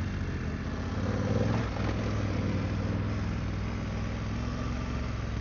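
BMW F900GS parallel-twin engine running steadily while riding, with a brief swell about a second and a half in, under a steady rush of wind and trail noise.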